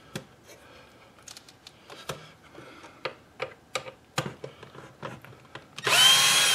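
Light clicks and taps of screws and plastic parts being handled, then about six seconds in a cordless drill-driver spins for about a second, backing out a screw, its motor whine rising and then winding down.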